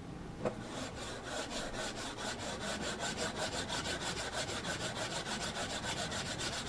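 Abrasive rubbed back and forth on a Brazilian rosewood guitar fingerboard in quick, even strokes, levelling the board and taking out its worn grooves. A single light knock comes about half a second in.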